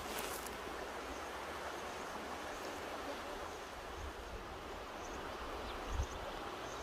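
Mountain river rushing steadily over its bed, with a low buffet of wind on the microphone about six seconds in.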